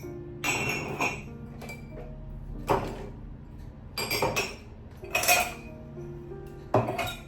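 Dishes and kitchen utensils clinking and clattering several times, over soft background music with held notes.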